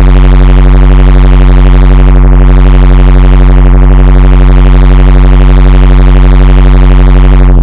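Loud, steady electronic drone: a sustained synthesizer tone with many stacked pitches and a heavy bass, held at full level, with a hiss above it that slowly sweeps up and down.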